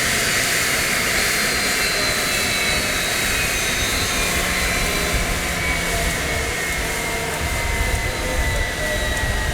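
Jet engine of a Mitsubishi F-2B fighter, a single F110 turbofan, a steady rush with a high whine that slides slowly down in pitch as the sound gradually fades.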